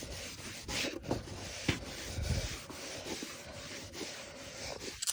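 An oxidation-removal wipe rubbing back and forth over a car's plastic headlight lens, scrubbing off heavy oxidation, with a few sharper strokes among the steady rubbing.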